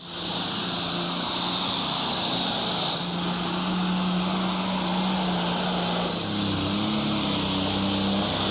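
Pulling-tractor engine running hard: a steady, loud drone with a high whine over it, the pitch shifting slightly about six seconds in.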